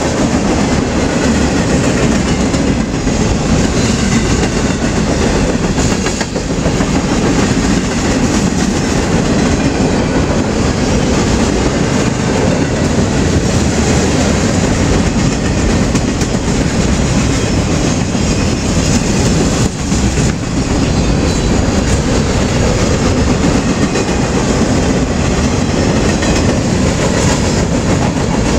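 Freight train cars rolling past close by, their steel wheels on the rails making a loud, steady noise.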